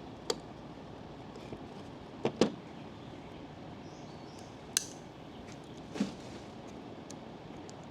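Sharp metallic clicks and knocks of hand tools, a socket and vise grips, working a spring-loaded piston and its snap ring in a Jake brake housing: five short strikes, two of them close together, over a steady background hum.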